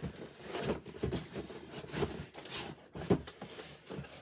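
Boxed collectible figures and cardboard packing being handled: irregular light knocks and rustles, with one sharper knock about three seconds in.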